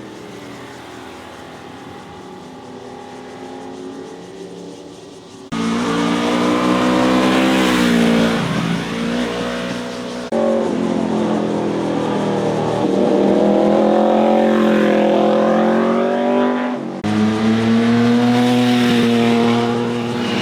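Motorcycle engines revving up and down as bikes ride past through a corner, with the pitch rising and falling. The sound is quieter at first, then louder, and jumps abruptly three times between passes.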